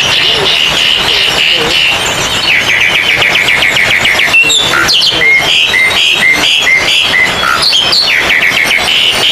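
Oriental magpie-robins (kacer) singing loud, overlapping phrases of rapid whistled notes and chattering trills, as at a songbird contest. From about halfway there is a run of short repeated notes about three a second.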